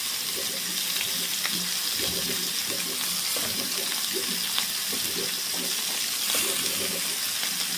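Steady hiss of water pouring and spraying onto plants as flowers are watered.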